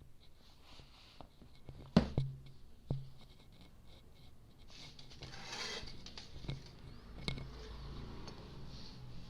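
Small metal parts of a diesel fuel injection pump being handled and fitted: a few sharp clicks and knocks, the loudest about two seconds in, and a short scraping rustle a little past the middle.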